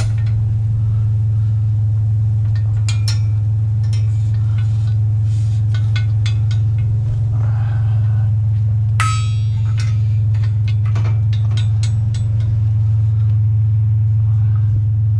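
Truck driving, a steady low drone of engine and road, with scattered clinks and rattles throughout and a brief burst of rattling about nine seconds in.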